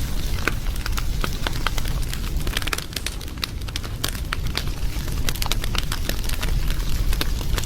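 Wood fire crackling, with frequent irregular snaps and pops over a steady low rumble.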